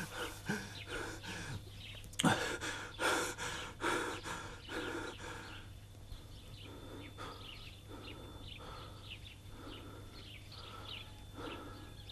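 Birds chirping in short, repeated calls, louder in the first few seconds, over a steady low hum.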